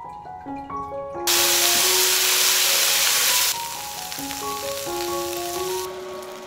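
Food sizzling in hot oil in a wok, loud for about two seconds, then softer from the middle of the clip as prawns are stir-fried, fading near the end. Light background music plays throughout.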